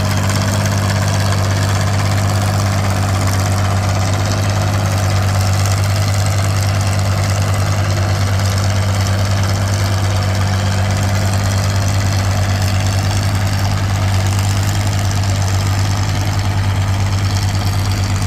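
Antique tractor engine running at a steady, unchanging speed, with a loud low hum.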